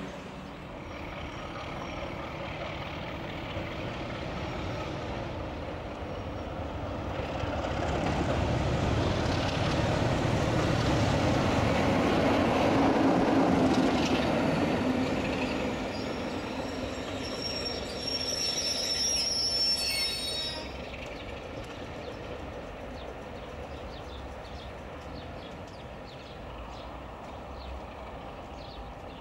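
Eurostar train passing on the track, its wheel-and-rail rumble building to its loudest about halfway through. High-pitched wheel squeal follows for a couple of seconds before the sound drops sharply to a quieter, steady rail rumble.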